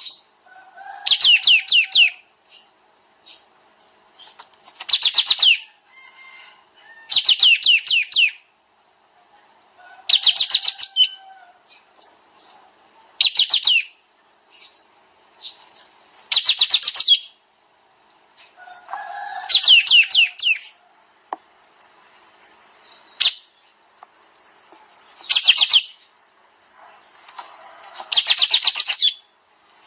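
Kapas tembak songbird singing in dense, rapid-fire bursts: runs of quick, closely spaced high notes lasting a second or two, repeated about every three seconds, with softer single chirps between the bursts.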